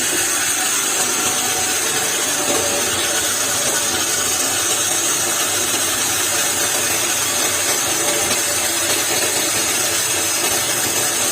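A woodworking power tool running steadily.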